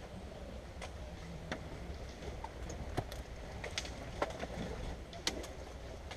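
Scattered sharp clicks and snaps, about six spread irregularly over the few seconds, over a steady low rumble.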